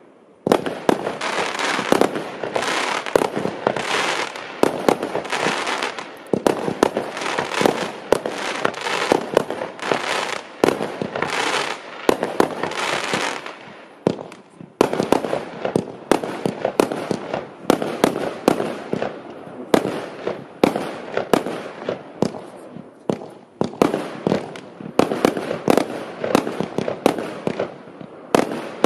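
Klasek C212MF/C Fireworks Show 212 cake firing shot after shot: a rapid, dense run of launch thumps and bursts, with a few brief lulls between volleys.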